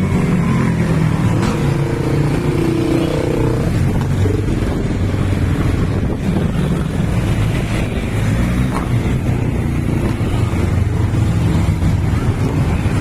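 Motorcycle engine running steadily and loudly, its note wavering slightly.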